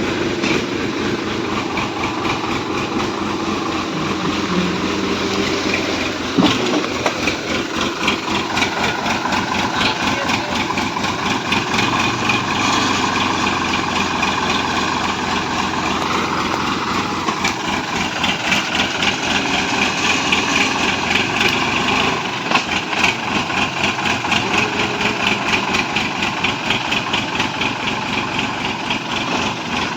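Diesel tractor engine running steadily, its firing pulses coming fast and even, with the pitch rising and falling a little midway. A single knock sounds about six seconds in.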